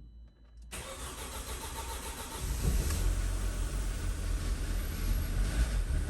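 The starter of a 2007 Audi A4's rebuilt turbocharged 2.0-litre four-cylinder (2.0T FSI) cranks the engine over. The sound begins about a second in and grows louder a couple of seconds later. The engine does not catch, which the owner takes for it not getting fuel.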